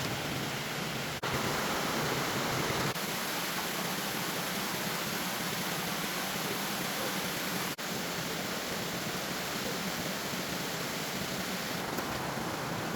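A steady rushing noise, even across high and low pitches, briefly cut off twice.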